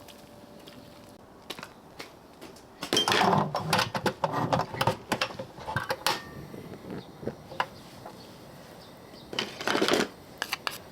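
Dishes and eating utensils clattering and clinking in quick irregular runs, densest from about three seconds in, with a short rustling clatter near the end.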